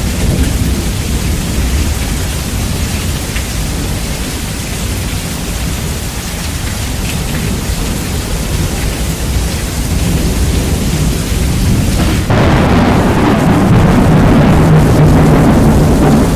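Rain with thunder, heavily bass-boosted so that the low rumble dominates. About twelve seconds in, the sound steps abruptly louder and harsher, and the highest hiss cuts out.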